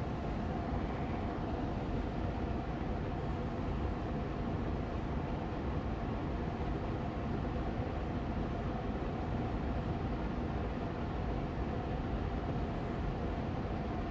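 Austin Air Allergy Machine air purifier fan running steadily on medium speed: an even rushing hum of moving air with a faint steady tone in it.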